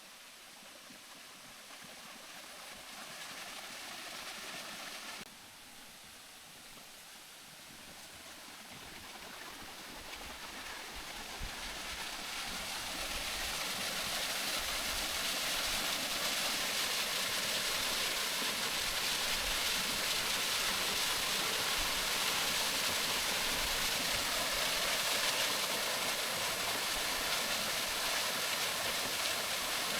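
Waterfall rushing: a steady hiss of falling water that dips suddenly about five seconds in, then grows louder over the next several seconds and holds.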